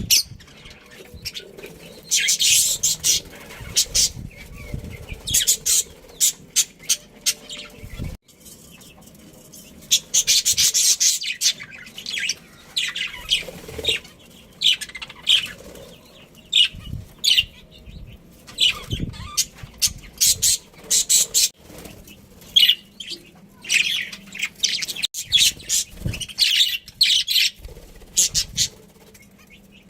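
Budgerigars chirping and chattering in quick, high-pitched spells broken by short pauses.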